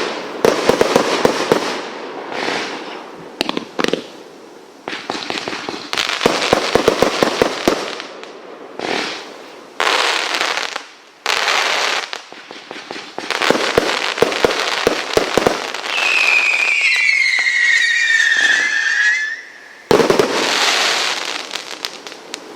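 Multi-shot firework firing in volleys: clusters of rapid crackling reports with short lulls between them. A whistling tone slides downward for about three seconds near the end.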